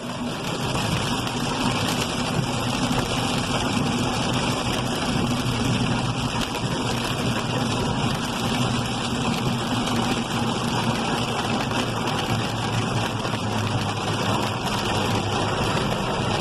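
Vehicle engine running low under a steady rushing wash of water and hail noise, as the vehicle creeps over a flooded, hail-covered road.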